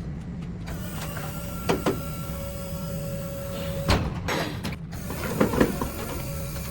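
An engine idling with a steady low hum, with a few sharp knocks and clicks about two, four and five and a half seconds in.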